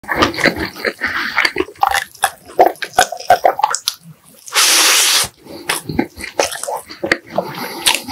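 Close-miked eating sounds: chewing and lip smacking in irregular clicks and smacks. About halfway through comes a loud rushing noise lasting under a second.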